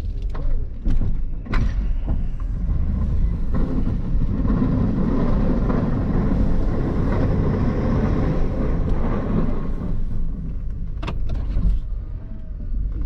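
Plow truck's engine running steadily while it plows a snowy parking lot. The sound swells louder for several seconds in the middle, and there are a couple of sharp clicks, one near the start and one near the end.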